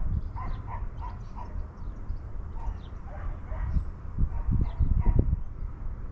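Short animal calls repeated irregularly, sometimes several in a second, over a low, uneven rumbling.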